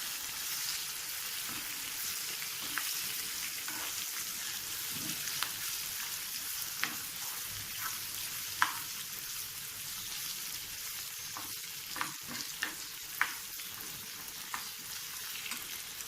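A tempering of curry leaves, tomato pieces and turmeric frying in hot oil with urad dal, chana dal, green chillies and ginger: a steady sizzle with sharp ticks now and then. The tomato is still cooking down to soften.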